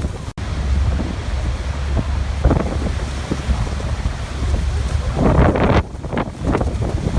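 Waterfall's rushing water with wind buffeting the microphone in gusts, a steady noisy rumble heavy in the lows. The sound cuts out for an instant about a third of a second in.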